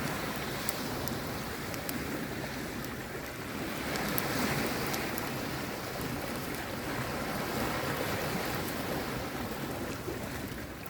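Sea waves washing, swelling about four seconds in, with faint scattered crackles like a bonfire's.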